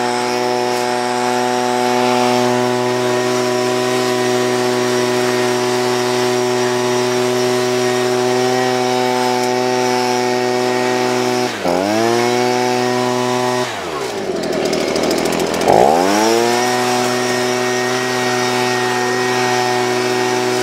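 Two-stroke gas leaf blower running at full throttle. Its pitch dips briefly about twelve seconds in, drops off toward idle a couple of seconds later, and revs back up about two seconds after that.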